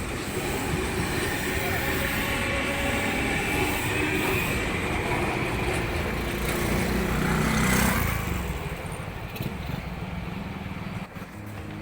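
Electric train running, a steady noise with a faint whine that rises a little, dropping away about eight seconds in.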